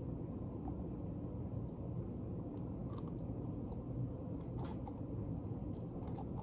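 Faint, scattered crunching clicks of a hard-shelled black scorpion being bitten and chewed, over steady low background noise.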